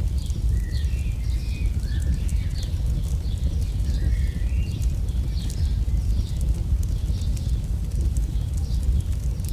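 AI-generated campfire crackle: a steady low rumble of burning with many scattered sharp pops and snaps, and short chirping whistles over it.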